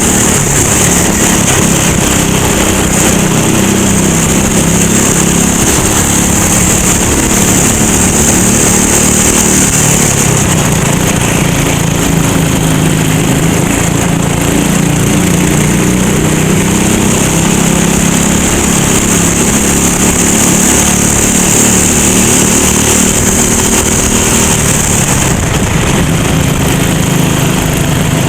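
Racing kart engine running hard, its pitch rising and falling over and over as the kart accelerates and slows through the corners.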